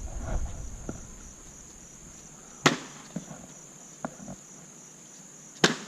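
Two sharp impacts about three seconds apart, from thrown hatchets striking, with a few fainter knocks between them. Crickets chirr steadily in the background.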